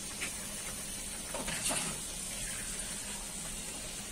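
Tomatoes and ground spices sizzling steadily in hot oil in a wok, with a few faint knocks of the spatula.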